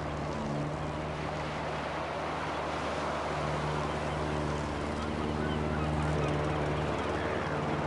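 Lawn mower engine running steadily under load while cutting grass, with a broad rush of blade and cutting noise over a low engine hum that shifts slightly in pitch.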